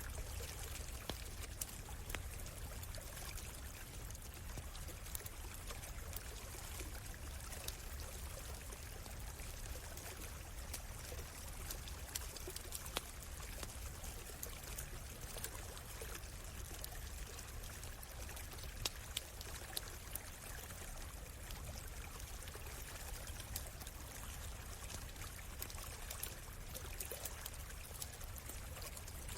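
Small stream flowing and trickling steadily, with scattered sharp pops from a crackling campfire.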